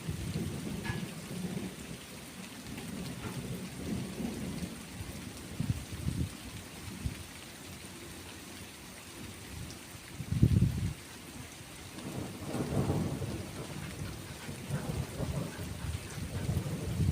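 Steady rain falling, with thunder rumbling low in the background. The loudest rumble comes about ten seconds in, and a longer one follows a couple of seconds later.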